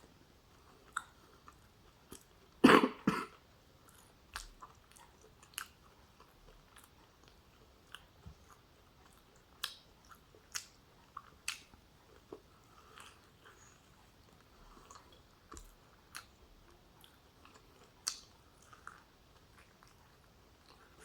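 Chewing and biting sounds of a person eating oxtail stew with rice: short, scattered mouth clicks and smacks every second or so, with a louder double burst a little under three seconds in.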